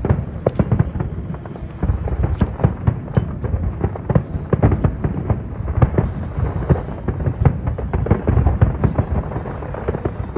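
Aerial fireworks going off in quick succession: a dense run of bangs and crackles over a continuous low rumble.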